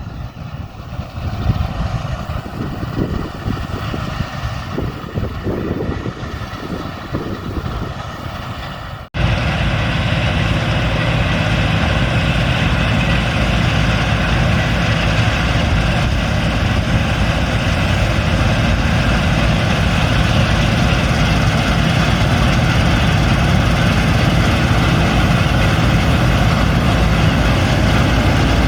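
Claas Lexion combine harvester running: a steady heavy engine and machinery drone. It breaks off for an instant about nine seconds in, then comes back louder and steadier.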